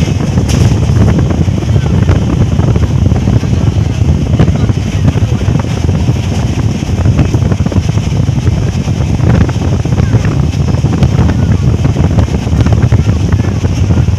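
Wind buffeting the microphone: a loud, steady, rumbling roar that flutters rapidly in level.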